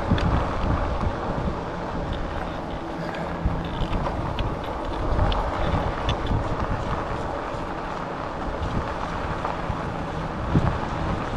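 Wind buffeting the microphone of a chest-mounted camera on a moving e-bike, a steady low rumble of ride noise with scattered small clicks and rattles.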